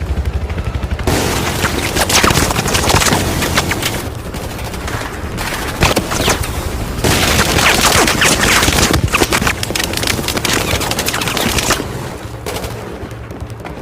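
A dense, rapid barrage of sharp cracks and impacts that comes in waves and is busiest in the middle, over a steady low rumble.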